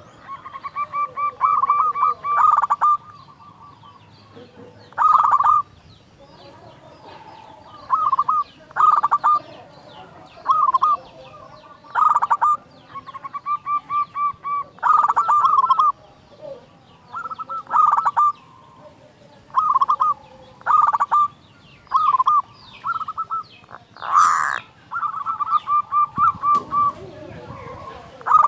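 Zebra dove (perkutut) singing its loud cooing song, a male's courtship call: short phrases of rapid staccato coos repeated every second or two. Faint chirping of other small birds runs underneath, and one brief sharp noise comes near the end.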